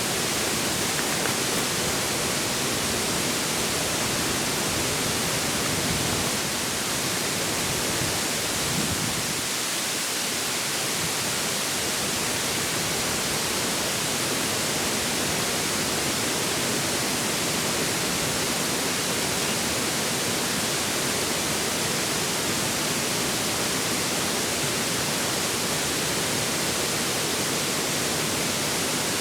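Steady rush of a river's flowing water, an even hiss that does not let up, mixed with wind.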